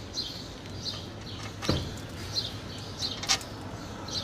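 A bird chirping over and over in short falling chirps, about one or two a second, with two sharp metallic clinks from hand tools on the truck's underside, about one and a half and three seconds in.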